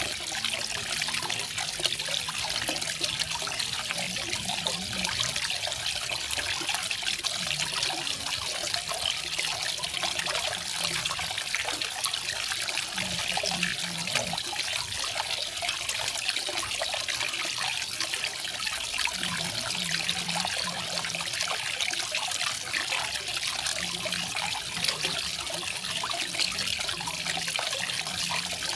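Small garden waterfall: water falling and splashing steadily in an even, hissing rush, with a faint low gurgle underneath.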